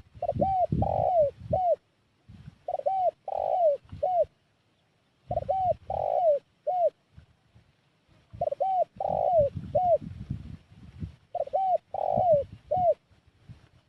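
Spotted dove (tekukur) cooing its lure call: five phrases of three or four notes, a short coo, a longer rolling coo and a short closing coo, repeated about every three seconds with short pauses between.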